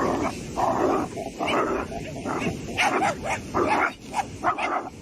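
A dog barking over and over, with longer barks at first and quicker, shorter ones in the second half.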